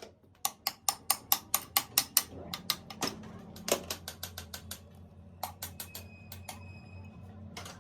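A quick run of sharp metallic clicks, about five a second, then slower, scattered clicks over a low steady hum that comes in a few seconds in, with a brief high whine near the end.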